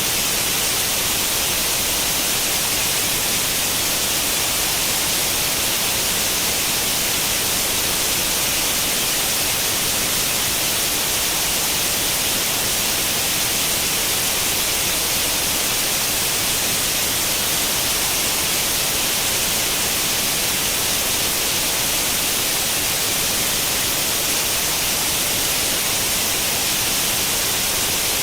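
Steady, hissy white noise of the kind a CRT television gives when no channel is tuned: an even hiss that is strongest in the upper range and never changes.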